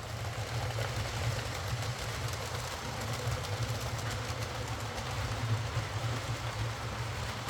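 Hornby Britannia Class OO gauge model locomotive running on the track: a steady motor hum with wheel and gear noise, the locomotive working again now that its split double gear has been replaced.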